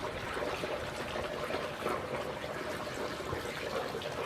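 Swimming-pool water trickling and lapping steadily.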